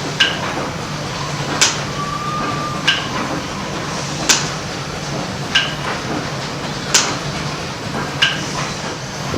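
Slow-running antique machinery with a steady low hum and an even rhythm of metallic clacks, about one every 1.3 seconds, alternating between a sharp knock and a ringing click.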